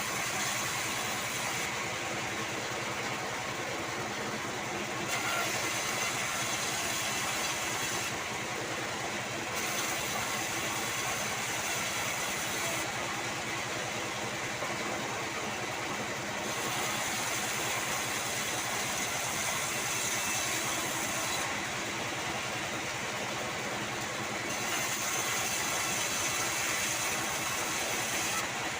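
Manual band sawmill running steadily with a low mechanical drone, while a higher hiss comes and goes every few seconds as the blade passes through sengon (albizia) timber.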